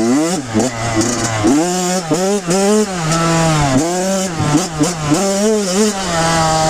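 Kawasaki KX100 two-stroke single-cylinder dirt bike engine revving up and down repeatedly while being ridden, its pitch rising and falling with each twist of the throttle.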